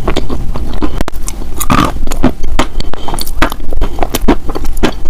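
Dense, irregular close-up clicks and crackles, loud and crisp, typical of close-miked ASMR trigger sounds.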